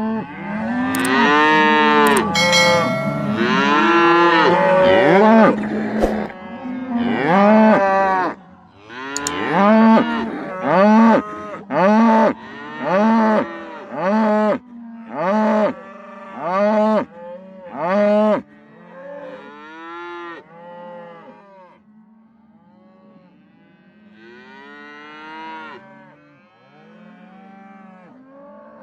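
Calves mooing over and over, each call a short rising-and-falling bawl. The calls overlap thickly at first, then come loud about once a second before growing fainter near the end. A steady low hum runs underneath.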